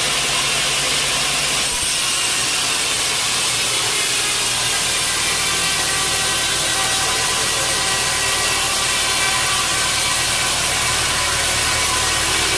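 Sawmill saw and its engine running, a steady, even drone and hiss with no break.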